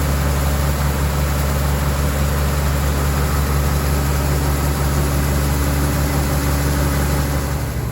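Tractor engine running steadily under load with a dense rushing noise over it, heard from inside the cab as the grain cart unloads corn into a truck; the engine note changes right at the end.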